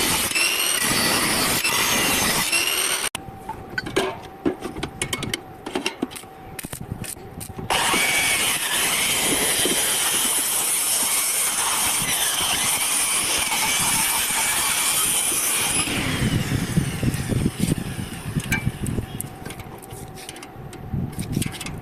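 Electric metalworking on steel: two long stretches of steady harsh, hissing noise, broken by a quieter few seconds of scattered taps and clicks between them and near the end.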